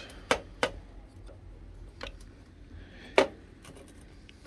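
Parts of a disassembled engine mount being handled: a few separate clicks and knocks, the loudest about three seconds in.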